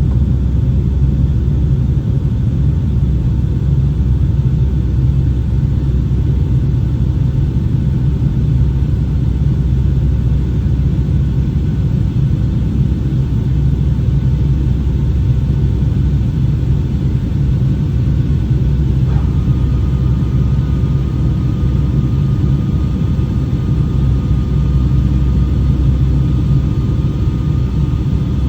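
Steady low roar of a Boeing 757-200 airliner's engines and airflow heard inside the cabin. About two-thirds of the way through, a faint, thin steady whine joins in.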